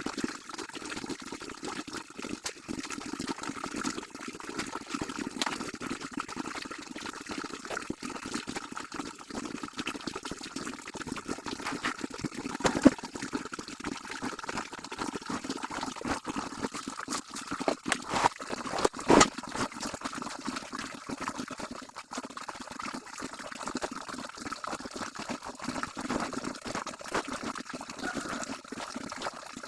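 Water sloshing and splashing continuously as laundry is washed by hand, with scattered small clicks and a few sharper splashes or knocks about 13 and 19 seconds in.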